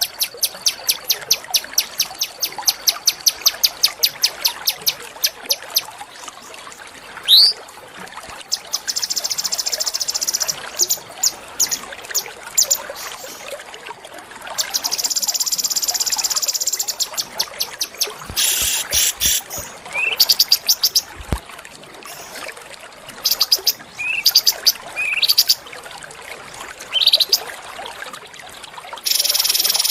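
Small songbirds calling: a rapid run of sharp, high chips at about four or five a second, then dense buzzy trills and short rising whistles. A faint steady trickle of water sits underneath.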